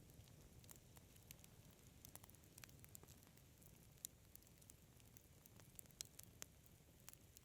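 Faint crackling of a wood fire: irregular sharp snaps and pops over a soft low rumble of the flames, with a few louder pops about four and six seconds in.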